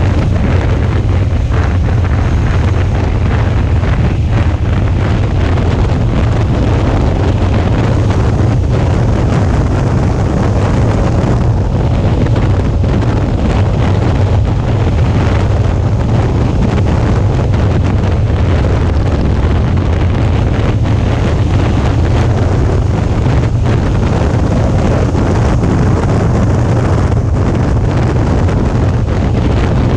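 Steady, loud wind buffeting on an action camera's microphone at riding speed, a deep rumble, with a Suzuki V-Strom 650 motorcycle running underneath.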